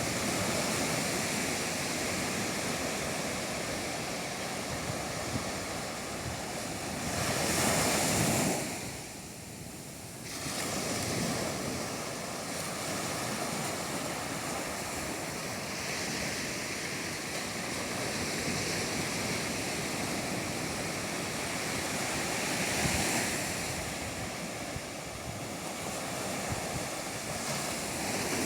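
Ocean waves breaking and washing up the beach in a continuous surf, swelling with the bigger breakers about eight seconds in and again near twenty-three seconds, with a short lull between. Some wind buffets the microphone.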